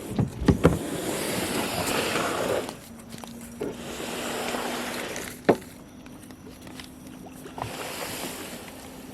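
Kayak paddle strokes in the water: three swishing, splashing swells about three seconds apart, with a few knocks near the start and a sharp knock about halfway through. A faint steady hum joins about three seconds in.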